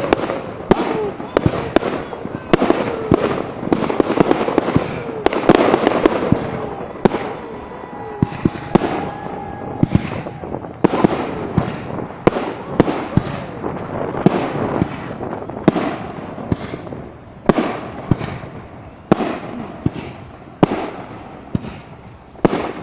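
Fireworks going off in rapid succession, many sharp bangs a second with crackling between them.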